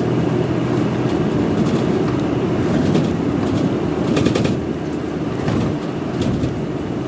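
Interior of a city bus on the move: the engine's low drone and road noise heard from inside the cabin, with a few brief rattles.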